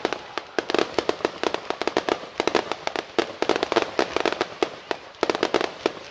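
Fireworks finale: a rapid, dense barrage of sharp bangs and crackling reports, many a second, coming in clusters.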